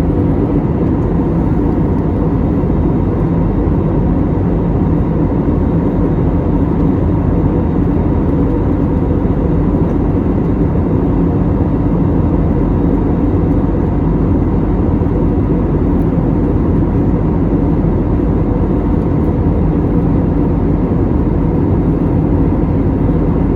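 Steady engine and airflow drone of a jet airliner heard inside the passenger cabin, with a few faint steady tones in it.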